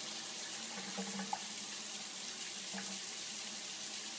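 Steady hiss of running water, like a tap running into a sink, with a few faint brief tones over it.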